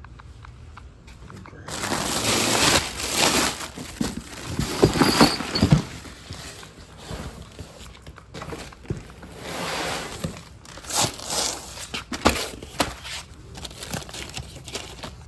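Packing material rustling and crinkling while suspension parts are unpacked from their box, starting about two seconds in, with scattered clicks and knocks of the parts being handled.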